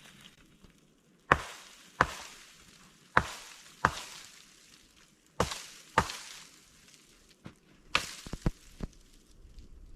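Chopping: sharp strokes mostly in pairs about two-thirds of a second apart, three pairs in all, followed near the end by a quicker cluster of lighter strikes.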